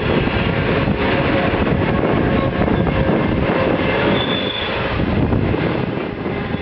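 Ore train wagons rolling past in a steady, loud rumble, with short faint squeals from the wheels, clearest about four seconds in.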